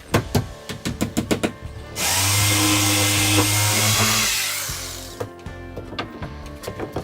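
A power tool runs for about three seconds and then winds down, with a series of sharp knocks and clicks before and after it. Background music plays underneath.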